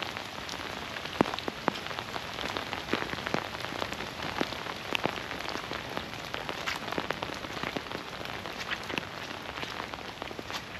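Steady rain falling, a continuous hiss with many individual drops ticking sharply close by; one drop lands noticeably louder about a second in.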